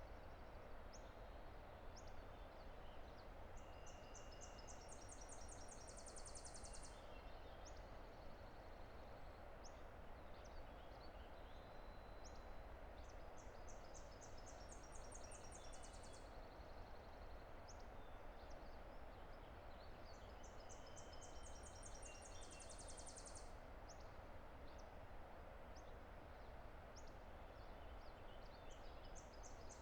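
A distant river rushing steadily, with a songbird repeating a high song about every eight seconds: a quick series of notes climbing in pitch into a fast trill. Short, scattered high calls come between the songs.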